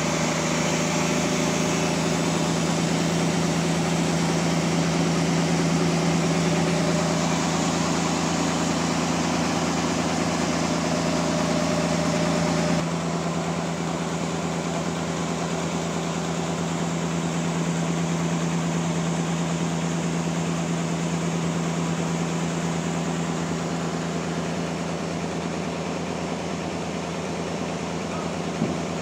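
Sawmill machinery running steadily: a low engine hum under a dense whirring noise. The sound changes abruptly about 13 seconds in, losing some of its top end.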